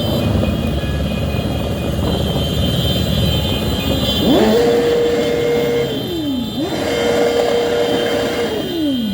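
Motorcycle engine revved twice among the rumble of passing traffic: each time the pitch jumps up quickly, holds steady at high revs for about a second and a half, then falls away as the throttle is let off.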